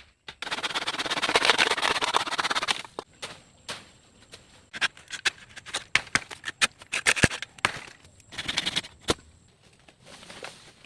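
A rasping scrape lasting a couple of seconds, then a series of sharp, separate knocks and clicks, with a second short scrape later on.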